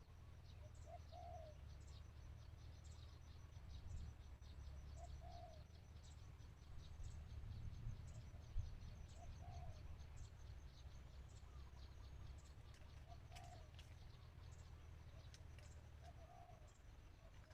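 Faint cooing of a spotted dove, one short low coo about every four seconds, over a fast, even, high-pitched ticking of insects and a low steady rumble.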